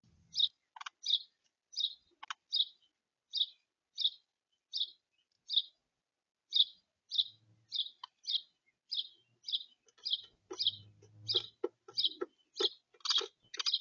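A songbird at a bird feeder giving a long series of short, sharp chip notes, about two a second, coming faster toward the end. Fainter, lower clicks join in over the last few seconds.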